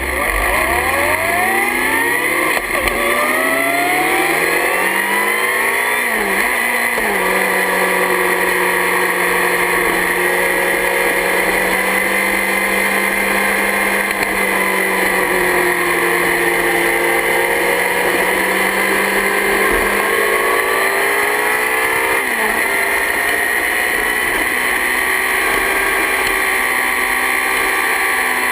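Yamaha R6 sport bike's inline-four engine revving up through several gears in quick succession, each rise in pitch cut by a shift. It then runs at a steady high pitch for a long stretch, with the revs climbing again about three quarters of the way through.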